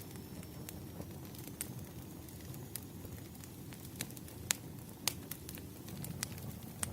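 Wood fire crackling: irregular sharp pops and snaps over a low steady rumble of burning logs, with a few louder pops past the middle.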